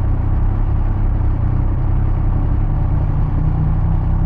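Triumph Speed Triple 1200 RS's three-cylinder engine running steadily under way, a dense low rumble; the engine note rises a little about two and a half seconds in.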